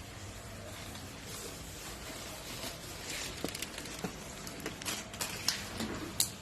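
Cardboard box rustling and knocking as it is handled and played in, with a run of sharp clicks and taps in the second half.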